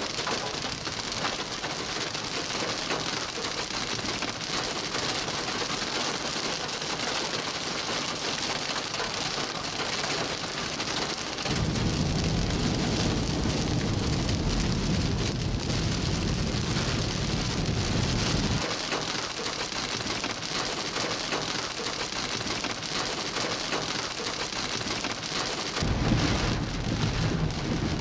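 Heavy rain falling steadily. A low rumble comes in abruptly about a third of the way through, drops out again a few seconds later, and returns near the end.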